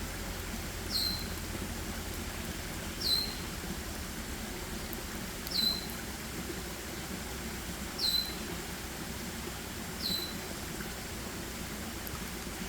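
A small animal's short, high call, a quick downward-sliding squeak, repeated five times about every two to two and a half seconds over a steady forest background hiss.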